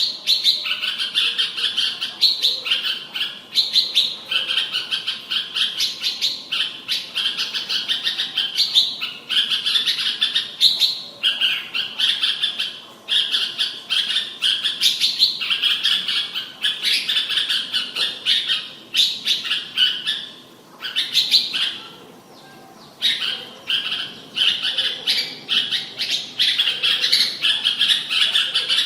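Red-whiskered bulbul singing, bright chirping phrases following one another almost without a break. There is a short pause about two-thirds of the way through.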